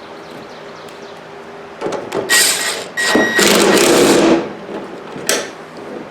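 A power tool runs in two short bursts, the second longer, tightening a fastener on a mower deck pulley, followed by a single sharp click.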